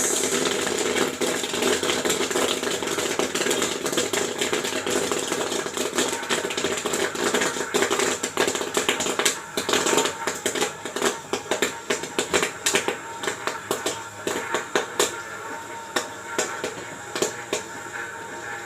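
Homemade 12-volt popcorn machine running with a steady hum while corn kernels pop inside it. The sharp pops come thick and fast from about nine seconds in.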